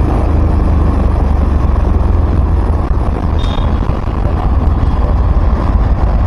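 Steady road and wind noise from riding along a highway in traffic, with a short faint high beep about three and a half seconds in.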